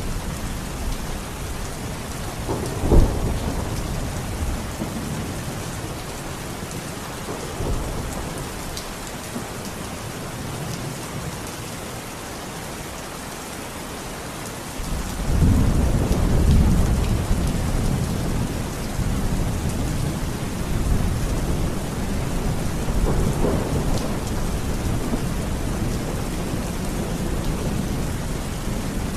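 Steady rain falling, with rolling thunder: a sharp crack about three seconds in, and a longer, heavier rumble starting about halfway through.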